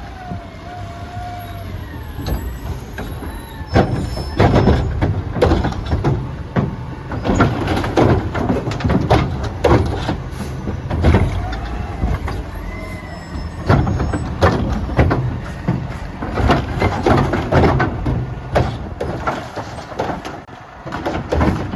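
Garbage truck running while it lifts and dumps wheeled trash carts: a steady engine sound under repeated bangs and clattering from about four seconds in, as carts are shaken out and knocked against the truck.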